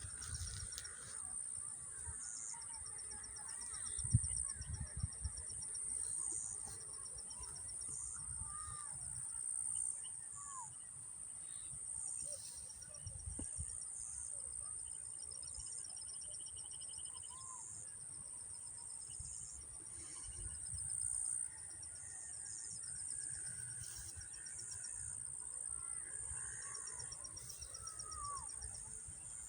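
Outdoor nature ambience: a steady high-pitched insect drone with a fast pulsing insect trill that comes and goes, short bird chirps scattered throughout, and irregular low rumbles underneath.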